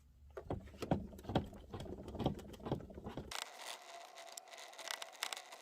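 Irregular light taps, clicks and rubbing from handling the headlight and polishing gear, with the powered polisher stopped.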